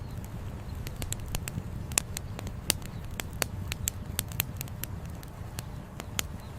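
Wood campfire crackling, with irregular sharp pops a few times a second, over the steady low rush of a flowing river.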